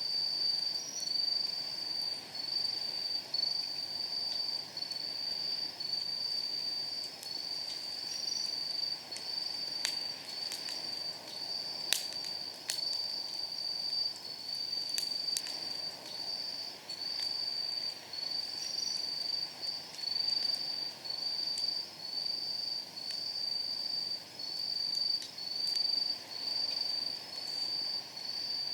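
Night insects chirping in a steady, high-pitched pulsing rhythm, about three chirps every two seconds, over a wood fire in a steel fire pit that gives a few sharp crackles and pops, the loudest about twelve seconds in.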